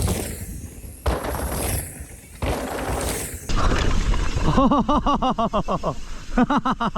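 Mountain bike tyres rolling and skidding over a loose dirt trail, with wind noise and a few sharp knocks. From about four and a half seconds a rider laughs in quick pulses, and again near the end.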